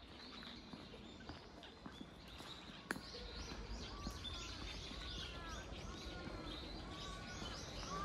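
Woodland birds calling: from about two and a half seconds in, a bird repeats a short arched call over and over, with fainter chirps higher up. A single sharp click comes about three seconds in.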